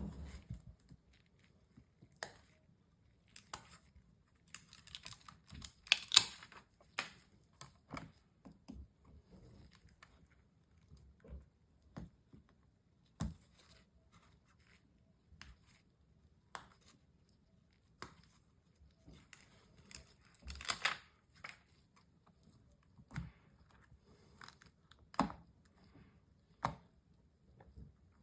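Small handling sounds from work on an opened MacBook Pro during a battery replacement: scattered clicks and taps of tools and parts, with two longer rasping, tearing-like noises about 6 seconds and 21 seconds in.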